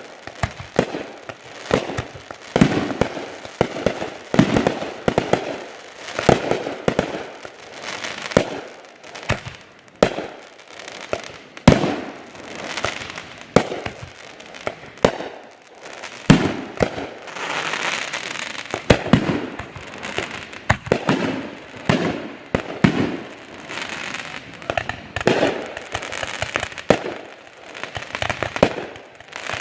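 Fireworks going off in quick succession: sharp bangs about one or two a second, each trailing off in an echo, with a stretch of dense crackling about 18 seconds in.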